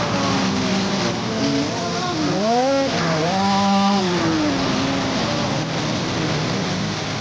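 Dirt bike engines running at a motocross track, over a steady engine drone. About two seconds in, one bike revs up, holds for about a second, then falls away.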